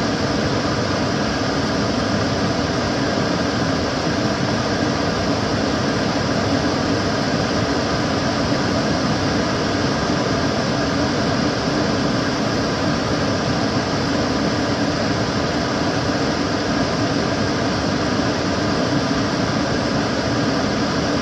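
Kitchen cooker hood extractor fan running steadily: an even rush of air with a low hum and no change.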